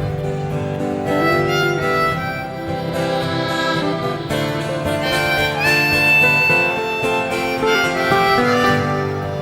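Harmonica solo over strummed acoustic guitar in a slow country-folk ballad, with a long held high note about halfway through.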